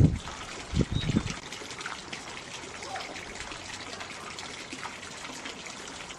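Water trickling, with two low thuds in the first second or so.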